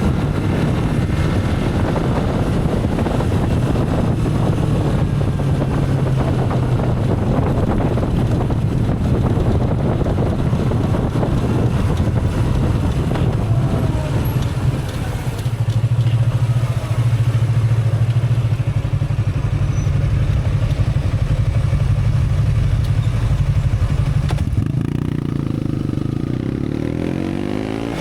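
Motorcycle engine running steadily under way, with wind rushing past. The engine note dips briefly about halfway through, then changes again near the end.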